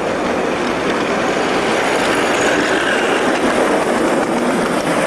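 Ride-on miniature railway train running along the track: a steady, even running noise.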